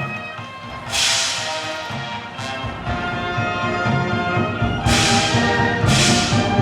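Wind band playing: sustained brass and woodwind chords over drums, with three loud percussion crashes that ring and fade, about a second in and twice near the end.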